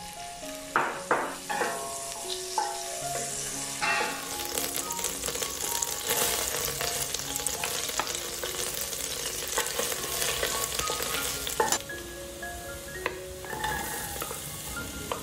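Butter and minced garlic sizzling in a hot stainless steel pot, with a wooden spatula stirring and scraping against the pot. A few sharp knocks come about a second in, and the sizzle grows steady and full from about four seconds in.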